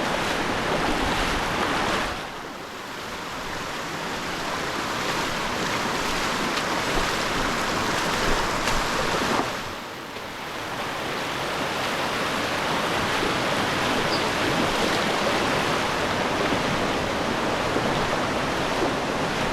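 Steady rush of flowing river water, dipping briefly about two seconds in and again near the middle.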